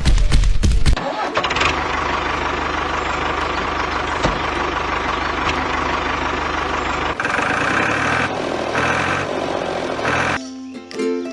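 Engine starting and running with a steady mechanical noise, changing to a different, stepped pattern for about three seconds. Ukulele music comes in near the end.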